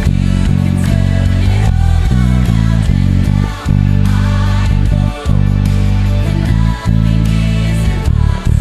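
Electric bass guitar holding long, low notes over a full band playing worship rock with guitars. The bass changes note every second or two, with short breaks between some notes.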